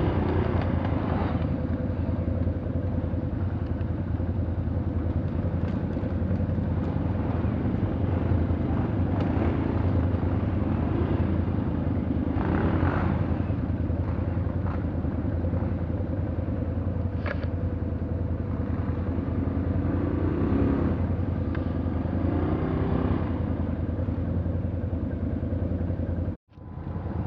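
A motor vehicle's engine running steadily, with a constant low drone and a thin steady tone above it. The sound drops out abruptly for a moment about a second before the end, then resumes.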